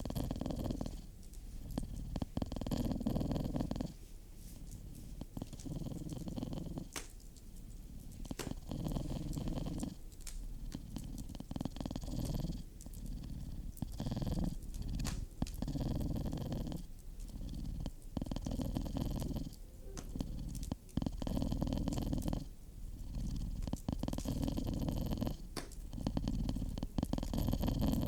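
Domestic cat purring, swelling and fading with each breath about every one to two seconds. Occasional sharp crackles come from a wood stove fire.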